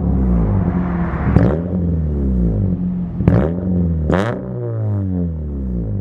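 Straight-piped four-cylinder Jeep Compass engine with no muffler, revved repeatedly so its pitch climbs and drops several times, with sharp cracks at a few of the peaks.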